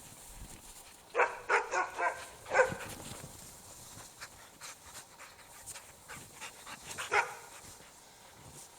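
Norwegian Elkhound barking: a quick run of about five barks a second or so in, then a single bark near the end.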